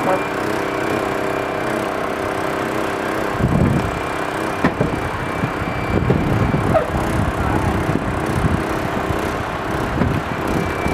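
An engine running steadily, with irregular knocks and a sharp click about five seconds in.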